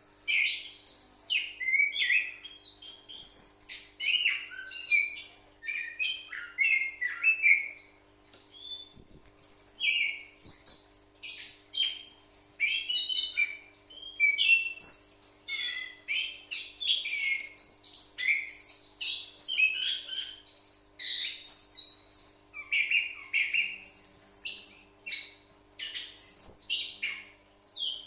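Caged orange-headed thrush singing continuously: a long, varied stream of quick whistled phrases, chirps and rapid pitch glides with barely a pause.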